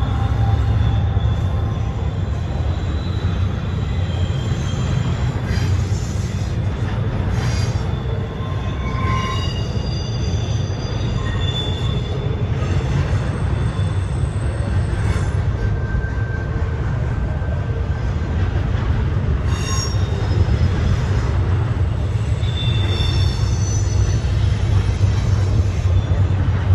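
Train passing close by: a steady loud low rumble, with thin high-pitched wheel squeals coming and going.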